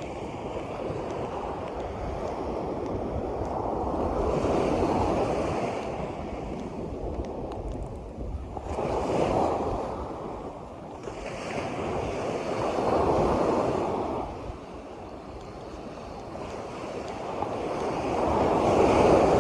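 Sea waves breaking and washing in, swelling and fading every few seconds, loudest near the end, with wind rumbling on the microphone.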